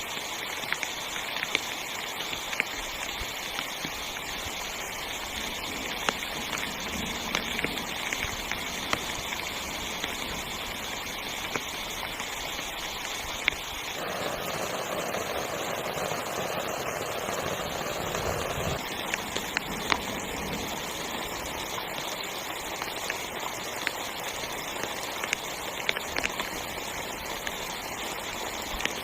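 Heavy rain drumming steadily on a tent, with scattered sharper single drop hits. About halfway through, the downpour swells louder for a few seconds.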